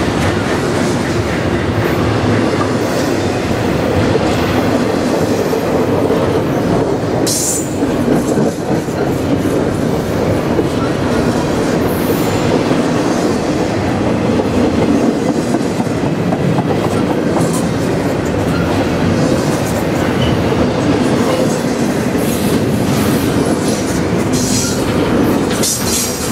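Double-stack intermodal freight cars rolling past close by: a steady, loud rumble and clatter of steel wheels on the rails. Brief high-pitched wheel squeals come about seven seconds in, around twelve seconds and again near the end.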